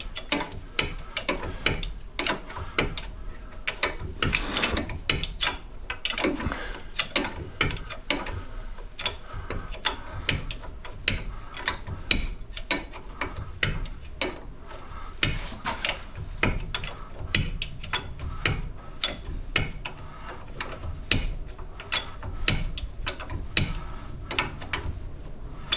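Hand ratchet wrench clicking in rapid runs of strokes as a nut is worked along a bolt during a front control-arm replacement.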